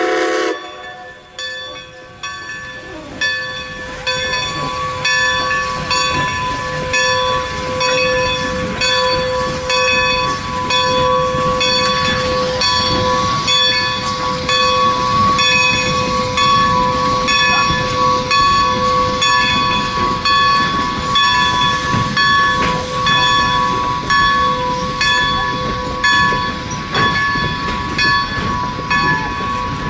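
A train passing close by just after its horn stops, with a low rumble and wheels clicking in a regular rhythm, plus steady high ringing tones throughout.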